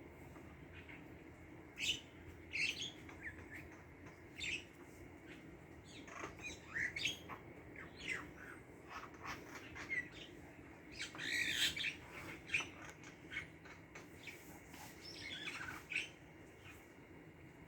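Wild birds calling: many short chirps and squawks in quick, irregular succession, thickest in the middle, over a faint steady background.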